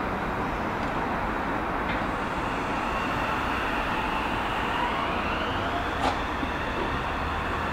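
Meitetsu electric train running over a steady rumble, its motor whine rising in pitch as it accelerates, with one sharp click about six seconds in.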